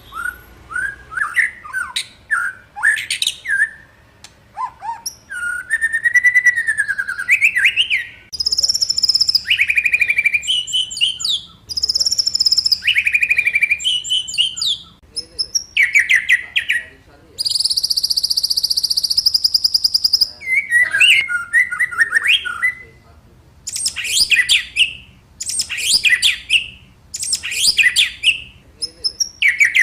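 A songbird singing loudly in a long run of varied whistled phrases, each a second or so long with short gaps between, and a rapid buzzy trill lasting a few seconds about halfway through.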